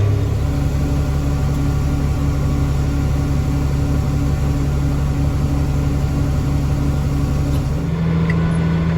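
Tractor engine running steadily under load, a low even hum with a faint regular pulse, its pitch stepping up slightly near the end.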